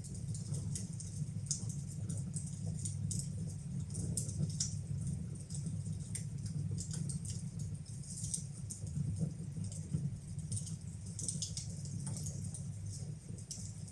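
Wood fire burning in a fireplace: many small, irregular crackles and pops over a steady low rumble.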